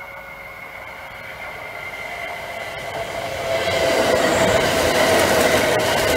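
Kintetsu electric train approaching and passing close by: the rumble of its wheels on the rails grows steadily louder and is at its loudest from about four seconds in as the cars go past, with a steady whine over it.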